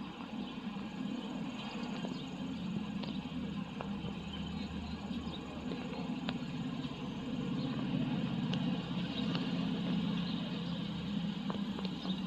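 Steady low engine hum, like an idling vehicle, growing a little louder partway through, with faint scattered ticks.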